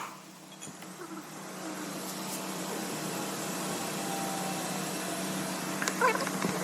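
Electric fuel pump motor running on test with a steady hum that builds over the first second or two, then holds even. There is a short chirp near the end.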